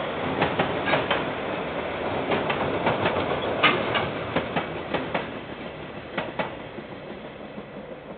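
KiwiRail freight train's container wagons rolling past, the wheels clicking over rail joints, often in pairs. The sound fades steadily as the end of the train draws away.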